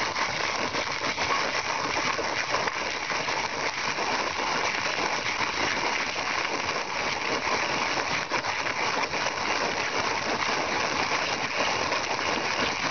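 Antique Lehnartz brass Turkish hand mill grinding coffee beans as its handle is cranked: a steady, dense crunching and crackling of beans being crushed between the burrs.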